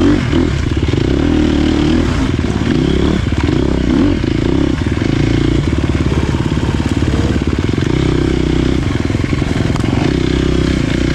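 Dirt bike engine running steadily under throttle on a trail, its revs rising and dipping slightly.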